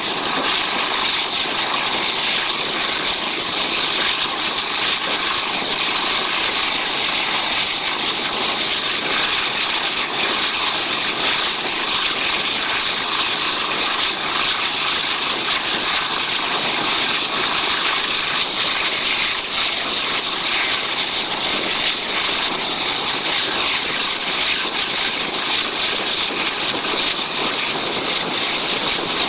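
Passenger train running at speed, heard from an open carriage window: a steady, loud rush of wind and rolling wheel noise with a faint underlying drone.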